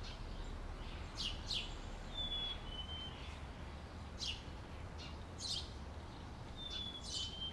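Songbirds calling outdoors: short, clear two-part whistles, each dropping slightly in pitch, alternate with quick down-sweeping chirps every second or so. A steady low rumble lies underneath.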